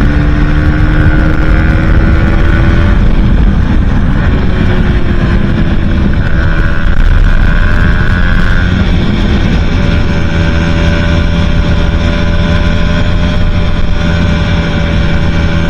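Aprilia Tuono 125's single-cylinder four-stroke engine, breathing through a Leo Vince exhaust with the catalytic converter removed, running hard at high steady revs at speed, with wind noise across the microphone. Its pitch climbs slightly at first, wavers about four seconds in, then holds steady.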